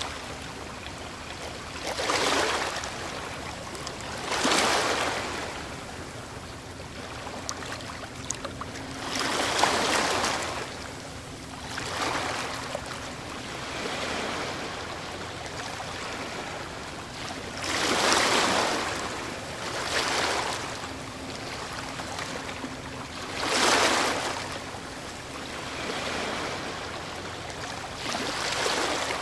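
Ocean waves breaking and washing in, about eight surges that swell and fade every few seconds over a steady hiss of surf.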